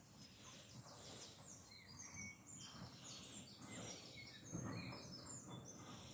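Faint chirping of small birds: many short, high chirps overlapping throughout.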